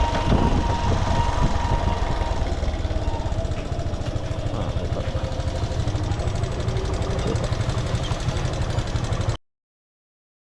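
Motorcycle engine running with road noise around it, a steady low rumble, cutting off suddenly into silence near the end.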